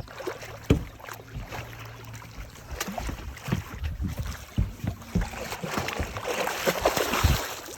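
Water splashing and irregular knocks and bumps against a boat as a hooked sturgeon is worked alongside, growing busier and louder near the end.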